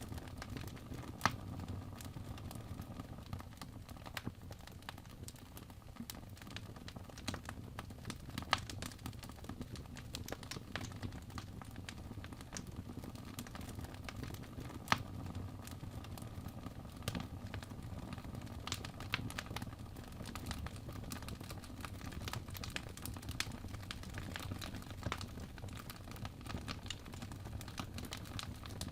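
Wood fire in a fireplace crackling, with many small irregular snaps and a couple of sharper pops over a steady low rumble of the flames.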